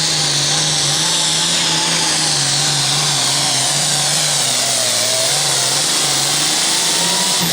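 Super Farm class pulling tractor's turbocharged diesel engine running flat out under load, pulling the sled down the track. The engine note wavers, sags a little midway and climbs again near the end.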